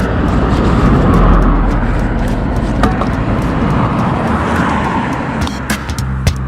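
Motorcycle running on the move, with heavy, continuous wind and road noise over the microphone and an engine note that swells and eases.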